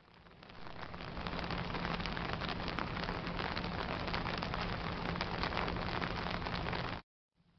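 Gentle summer rain shower falling: a dense patter of fine drops over a steady hiss. It fades in over the first second or so and cuts off abruptly about seven seconds in.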